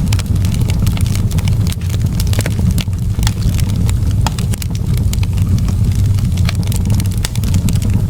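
Wood fire burning in a fireplace, with many sharp, irregular crackles and pops over a steady low rumble.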